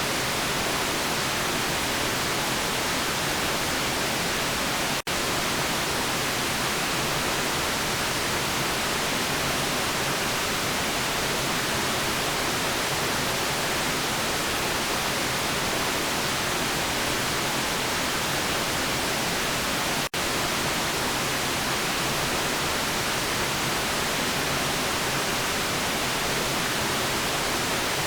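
Steady white noise, an even bright hiss with no tone or rhythm in it. It cuts out for an instant twice, about five seconds in and again about twenty seconds in.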